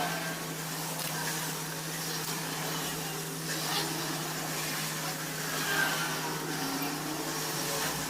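A steady mechanical hum over a constant background noise.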